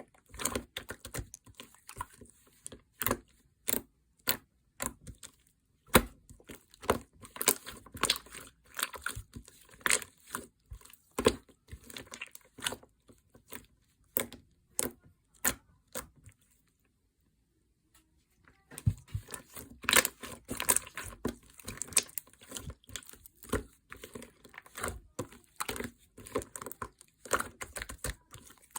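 Slime being squeezed, pressed and poked by hand, making a rapid, irregular run of crackling clicks and pops. It pauses for about two seconds a little past the middle.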